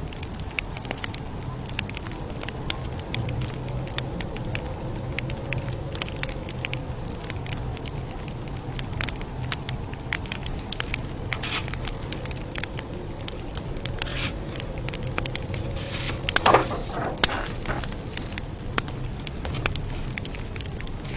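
Campfire crackling: frequent sharp pops and snaps over a steady low rumble of burning wood, with a louder cluster of pops about three-quarters of the way through.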